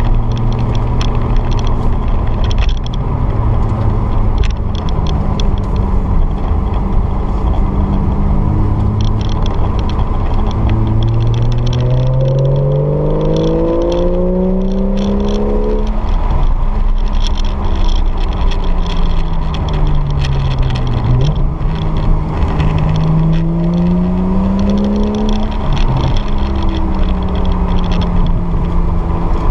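Porsche 911 GTS flat-six engine heard from inside the cabin over steady road noise. Its note climbs under acceleration from about a third of the way in, breaks off and falls away, climbs again, then drops and settles to a steady cruise near the end.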